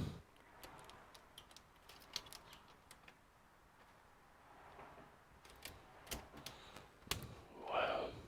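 Scattered light clicks and taps of a Dell Inspiron 5558 laptop's plastic case being handled and pried at during disassembly, with a short rasp near the end.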